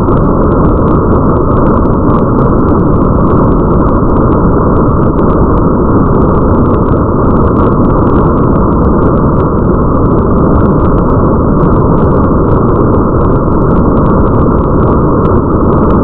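Steady, muffled rain ambience: a dense low rushing hiss with the treble cut away, and faint patter of drops ticking above it.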